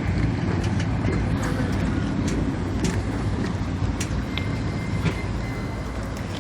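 A motor engine running steadily with a low rumble that fades slightly, with scattered light clicks and knocks.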